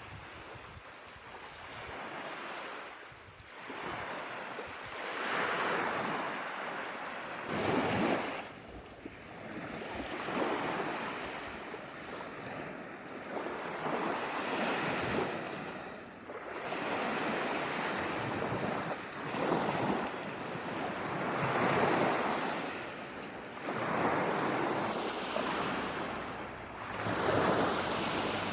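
Small waves breaking on a sandy Lake Huron beach, washing in every few seconds in rising and falling swells, with wind buffeting the microphone.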